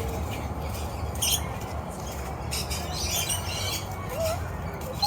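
Birds squawking and chirping in short, scratchy, high-pitched bursts, with a short rising whistle near the end, over a steady low hum.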